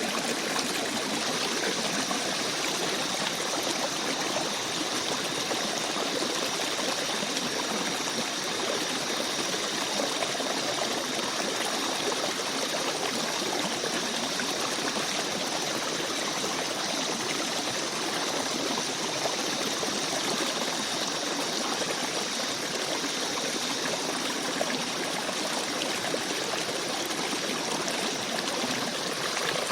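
Shallow forest stream flowing and babbling over rocks: a steady, unbroken rush of water.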